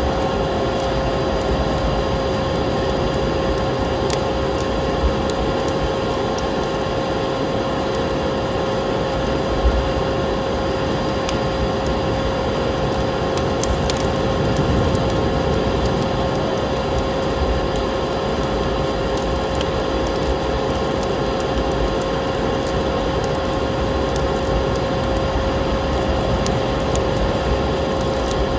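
Wood fire crackling in a fireplace: scattered sharp pops and snaps over a steady rushing hiss, with a constant tone held underneath.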